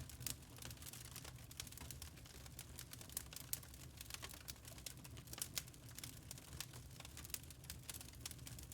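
Wood fire crackling with many irregular sharp pops and snaps over a low, steady rumble of burning logs.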